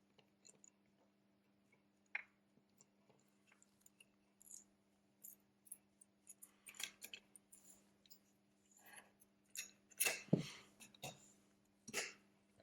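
Faint, scattered clicks, taps and scrapes of small repair tools working on a smartphone's parts, with the loudest cluster about ten seconds in, over a low steady hum.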